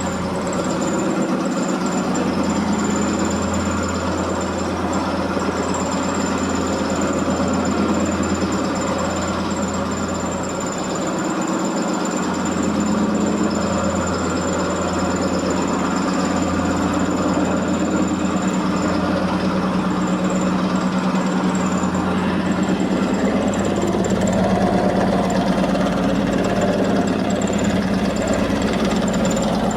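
Electrolux 15 kg commercial washing machine in its high-speed final spin at about 1245 rpm, running loud and steady with a thin high whine over it. The load is very unbalanced, so the drum runs out of balance.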